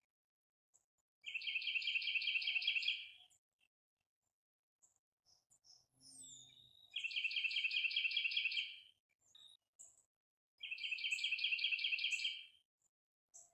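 A songbird singing three times, each song a two-second run of about ten quick repeated notes, with a few short chirps and a falling call between the second and third songs.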